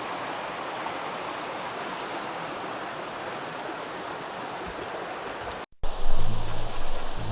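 Mountain stream rushing steadily, an even wash of water noise. About three-quarters of the way through it cuts out and background music starts.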